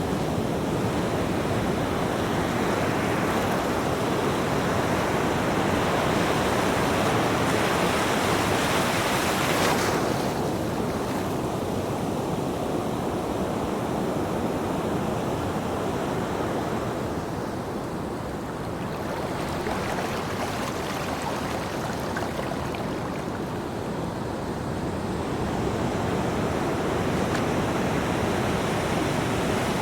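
Ocean waves breaking and washing onto a shore: a steady surging hiss that swells, falls away about a third of the way through, and builds again near the end.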